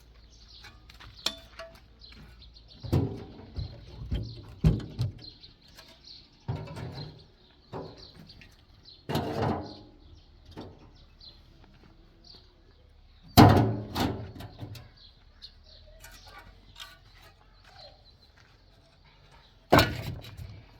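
Irregular scrapes and knocks of hand tools working cement, with several louder strikes, the loudest about two-thirds of the way through and another near the end. Faint bird chirps are heard behind.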